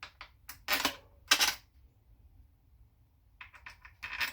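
Small metal bolts clinking and clicking as they are handled and set into a Honda automatic transmission's valve body: several sharp clicks in the first second and a half, then a quick run of clicks near the end.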